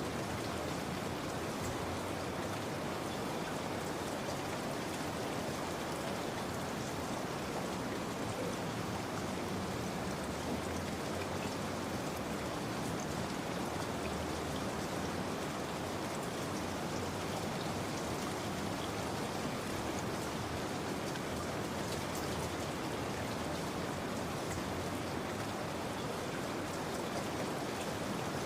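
Steady rain falling, a dense even patter of raindrops.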